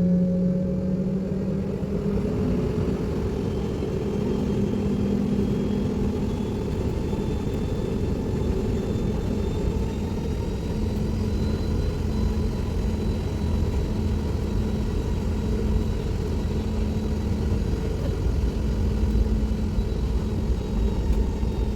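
Airliner cabin noise from a window seat: a steady low engine rumble with a faint high whine.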